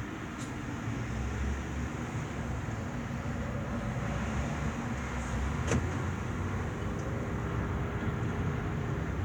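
Car engine idling with a steady low rumble, a single sharp click a little past halfway, and a faint steady whine near the end.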